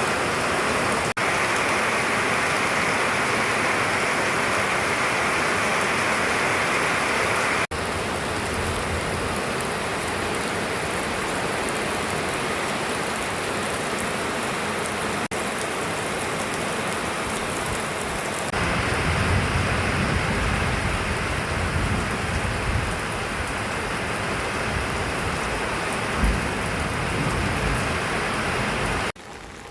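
Heavy rain falling steadily, a dense even hiss of drops, cut between several recordings. A low rumble joins it in the second half, and it drops suddenly to much quieter near the end.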